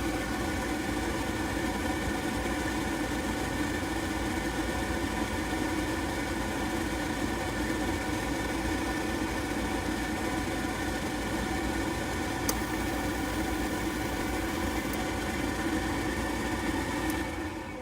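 Goodman gas package unit running on a call for heat: a steady motor hum, with two brief ticks in the second half. The technician believes the burners never lit and only raw gas came out.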